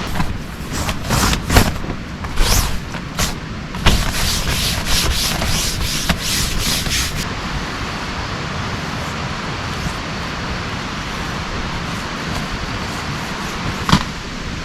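Steady heavy rain hiss, with a run of quick rubbing and scraping strokes over the first seven seconds or so and a single sharp knock near the end.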